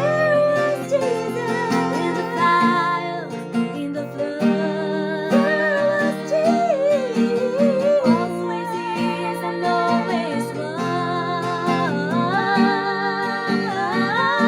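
Acoustic guitar accompanying women singing a slow hymn melody with vibrato, the sung line wavering and gliding without clearly made-out words.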